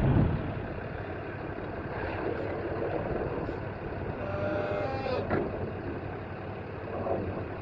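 Pickup truck running: a steady engine and road rumble, with a faint brief tone about four and a half seconds in.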